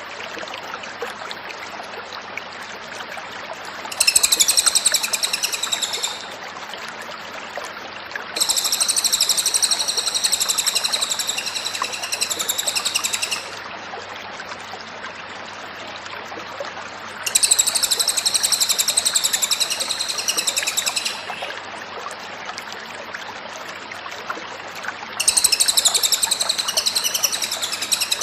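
Cililin songbird in full, energetic song: four bursts of rapid, high, repeated chirping phrases of two to five seconds each, separated by steady hiss and a faint low hum.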